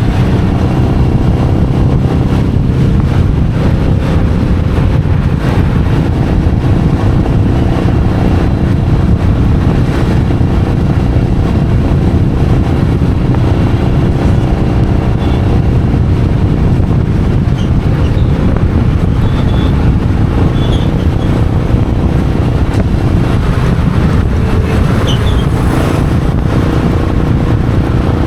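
Royal Enfield Meteor 350's single-cylinder engine running steadily under way, its exhaust note mixed with road and wind noise.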